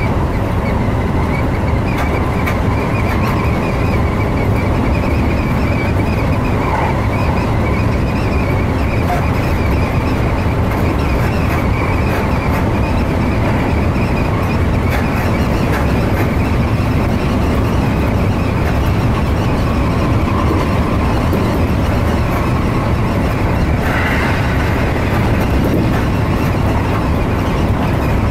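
Electric commuter train running steadily at speed, heard from inside the front car: a continuous rumble of wheels on rail and running gear.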